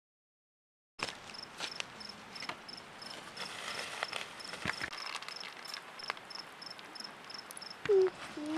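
Crickets chirping outdoors at night, a steady run of short high chirps about three a second, with scattered faint sharp clicks. The sound starts about a second in, and a voice comes in near the end.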